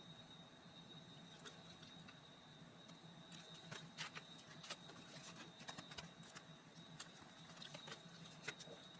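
Near silence with faint, scattered small clicks and taps, busiest in the middle, over a steady faint high whine and a low hum.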